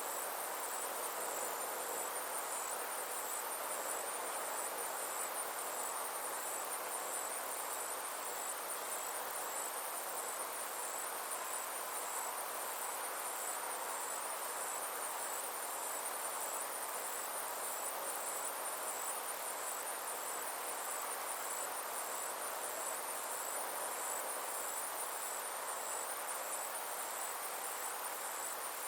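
Insect chorus: a steady, high-pitched pulsing trill over a softer, even hiss of background sound.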